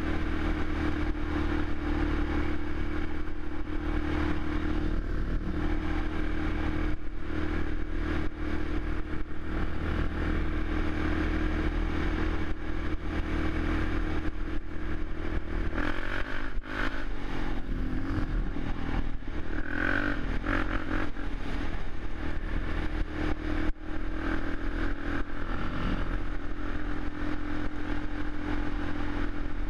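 Suzuki LTZ 400 quad's single-cylinder four-stroke engine running steadily, its pitch shifting briefly a little past halfway through.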